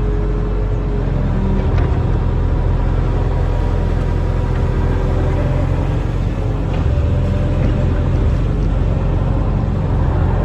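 Barge-mounted excavator's diesel engine running steadily with a low rumble, under a faint hydraulic whine that shifts pitch as the arm works.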